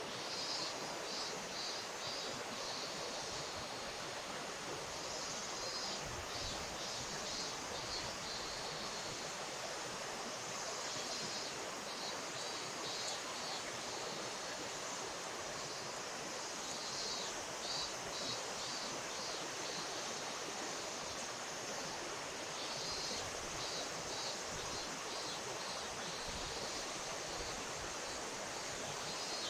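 Steady rush of flowing river water. Over it, short runs of a rapid, high-pitched pulsing come and go every few seconds.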